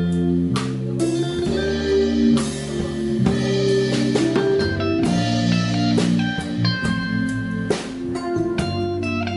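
A live band playing a blues-flavoured instrumental, guitar carrying sustained melody notes over drums and cymbal hits.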